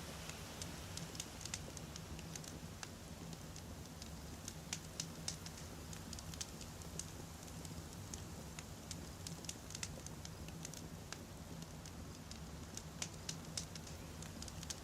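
Wood campfire burning with irregular crackles and pops over a soft steady hiss.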